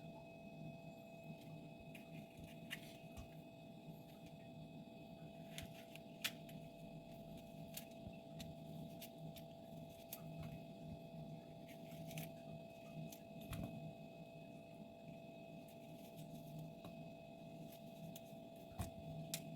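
Faint steady hum with a few light clicks scattered through.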